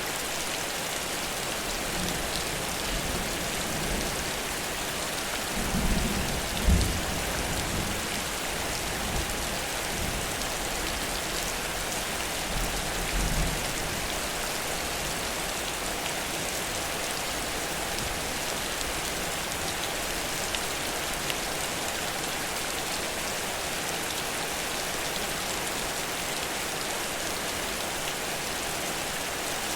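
Heavy rain pouring steadily, with two brief low rumbles about six and thirteen seconds in.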